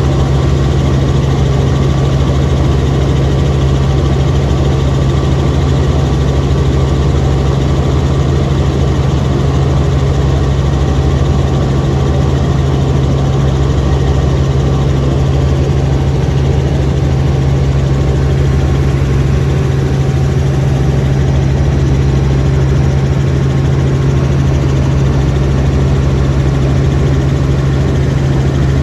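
Helicopter in flight: a steady, unchanging drone of rotor and engine with a strong low hum.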